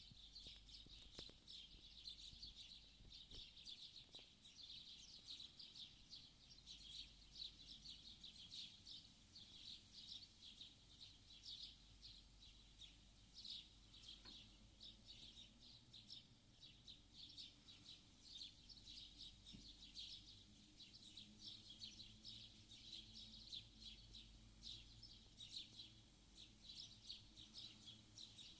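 Many small birds singing at once: a dense, continuous chorus of high-pitched chirps and twitters, faint, over a low steady rumble.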